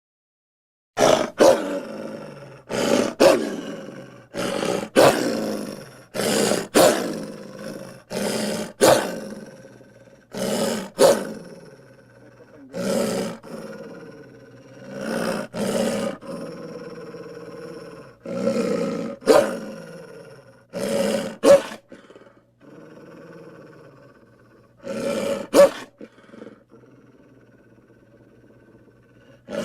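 A string of short, wolf-like growls and roars used as werewolf sound effects, one after another every second or two, each starting sharply and fading; they thin out and go quieter near the end.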